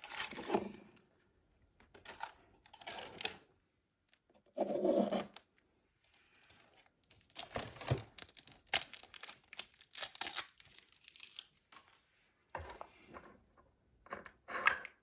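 Toy packaging being torn open and rustled in short, irregular bursts with brief pauses between them.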